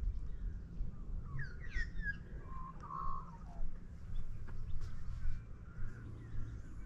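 A bird calling briefly: a quick run of chirps about a second and a half in, then a short lower note, over a steady low rumble.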